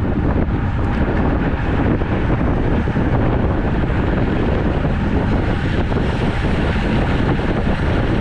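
Steady wind noise rushing over the microphone of a camera riding along on a road bike.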